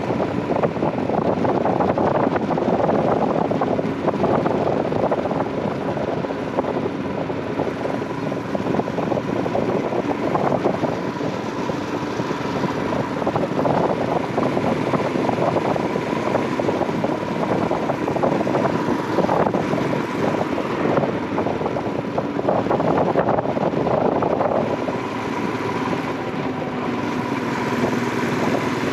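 Royal Enfield Himalayan 411's single-cylinder engine running steadily as the motorcycle rides along, mixed with wind noise on the microphone.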